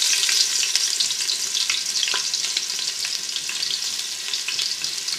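Ginger-garlic paste sizzling in hot ghee as it is stirred: a steady hiss with fine crackles.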